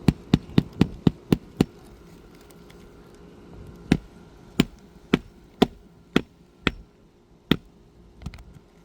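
Hand hammer driving roofing nails into an asphalt shingle: a quick run of about seven blows, a pause of a couple of seconds, then a slower, more spaced-out run of about eight blows.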